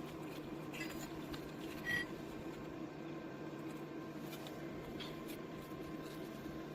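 Steady low hum with a few light clicks and one short, ringing metallic ping about two seconds in.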